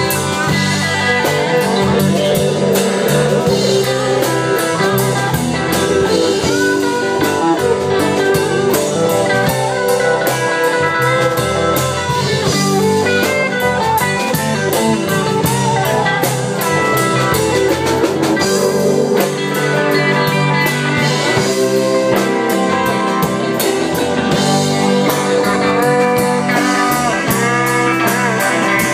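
Blues-rock band playing an instrumental passage with no singing: guitar over a steady drum-kit beat.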